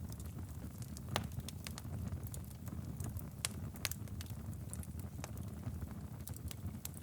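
Wood fire crackling in a fireplace: a steady low rumble of flame with irregular sharp pops and snaps, the loudest about a second in and twice near the middle.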